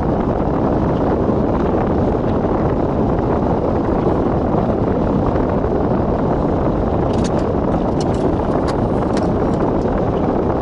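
Strong blizzard wind buffeting the microphone as a steady, loud low rumble, with a few faint clicks in the second half.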